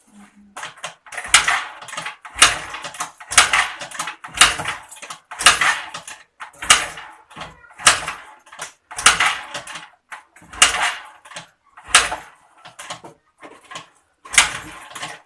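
Suzuki Skydrive 125 FI scooter being kick-started over and over, about one kick a second, each stroke a short mechanical rush that never catches, with a brief pause near the end. The engine won't fire because the battery is flat after six months standing.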